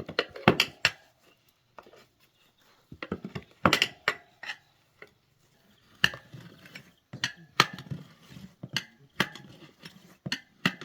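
Irregular clinks and knocks of hard objects being handled, a few louder strikes among lighter taps.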